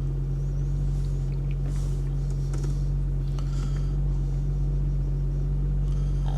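BMW M140i's 3.0-litre turbocharged straight-six idling steadily, heard from inside the cabin with the door shut.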